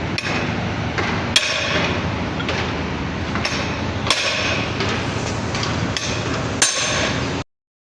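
Hammer blows on the metal parts of an outrigger extension cylinder being taken apart: uneven strikes about one a second over steady workshop noise, stopping abruptly near the end.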